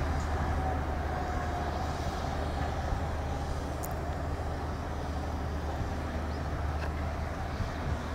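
Steady low rumble of an Amtrak Keystone passenger train running away into the distance, easing slightly as it recedes.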